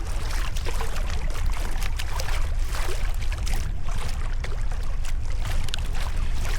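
Sea kayak being paddled: the paddle blades dip and splash, water dripping and trickling off them, over a steady low rumble.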